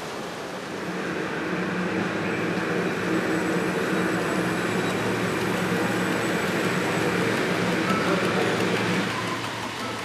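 HO scale model train running on the layout: a steady motor hum and the sound of wheels on the rails, growing louder from about a second in and easing off near the end.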